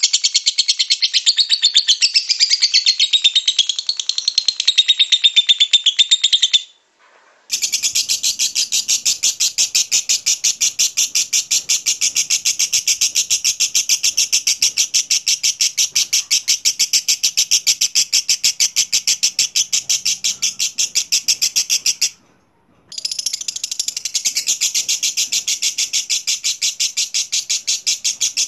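Lovebird chattering in long, fast, even runs of high chirps, the continuous trill that keepers call "ngekek". The first few seconds hold more varied, gliding notes. The calls stop briefly about seven seconds in and again about twenty-two seconds in.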